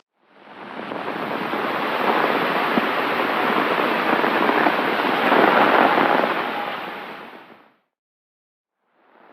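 Heavy rain falling steadily as a dense hiss, fading in at the start and fading out about seven and a half seconds in; after a second of silence it fades in again near the end.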